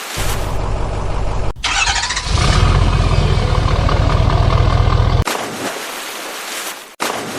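Tractor engine running, then after an abrupt cut a short starting whir and louder steady running with a low hum, which drops away about five seconds in; the sound comes in short edited pieces.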